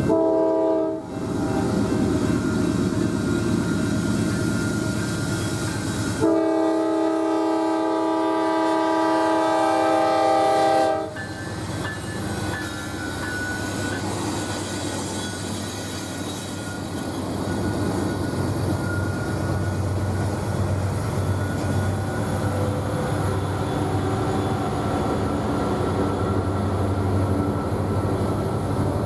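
Freight train's locomotive horn sounding a chord twice: a blast that ends about a second in, then a long blast from about six to eleven seconds. Under and after it, the train rolls past with a steady rumble and wheel clatter.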